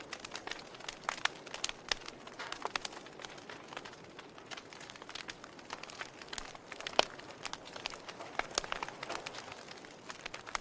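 Fire crackling: irregular sharp pops and snaps over a soft hiss, with one louder pop about seven seconds in.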